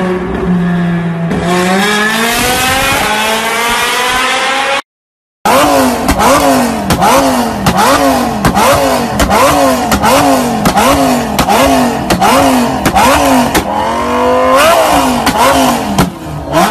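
Car engine with a loud aftermarket exhaust being revved. It holds a steady note, then rises in one long rev. After a short break comes a run of quick rev blips, about one and a half a second, with sharp cracks from the exhaust, and near the end one longer rising rev.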